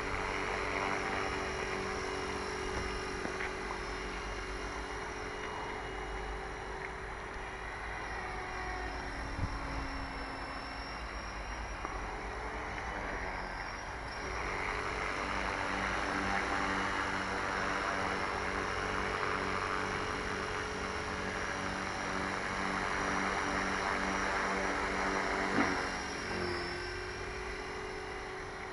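Electric motors and rotors of a small remote-control aircraft running at a hover on a test flight after repairs. It is a steady hum of several tones over a rushing noise, shifting in pitch a few times as the throttle changes, with a short knock near the end.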